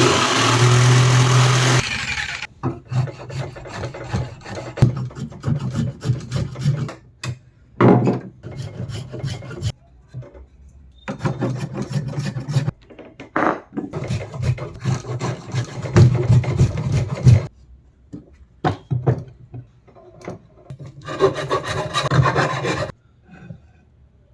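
Wooden cricket bat handle being worked by hand, with rasping, rubbing strokes in bursts and short knocks and clicks in the pauses between. The longest bursts come right at the start, about halfway through and near the end.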